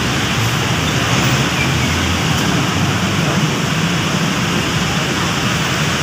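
Heavy rain pouring down in a loud, steady hiss, with a low rumble of city traffic beneath it.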